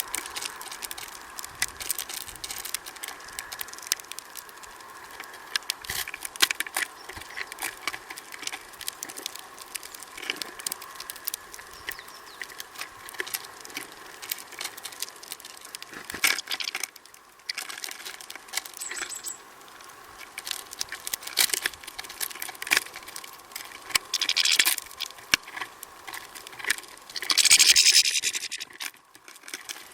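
Small birds feeding at a bird feeder: a busy, irregular patter of pecking and tapping clicks on seed and feeder, with a short high chirp a little past the middle and two louder rustling bursts near the end.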